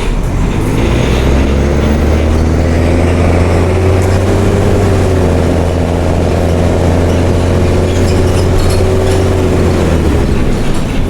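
Mercedes-Benz OM366LA turbo diesel in a city bus, running loud through a straight-through open exhaust while pulling under load. Its pitch rises a little after about a second, holds steady, then drops near the end.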